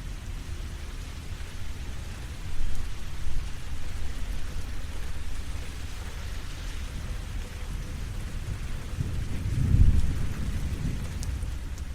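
Steady rainfall, an even hiss, with deep rumbles of thunder, a short one about three seconds in and a longer, louder one near the end.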